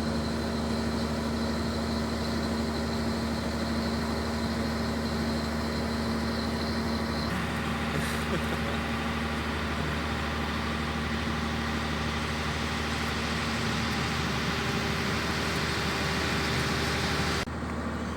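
Tour boat's engine running steadily, a low hum with a constant droning tone. About seven seconds in, a rushing hiss rises over it, and near the end the hiss cuts off suddenly.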